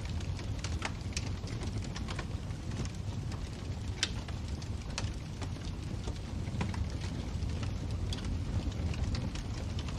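Wood fire burning in a fireplace: a steady low rumble with frequent sharp crackles and pops, the loudest pop about four seconds in.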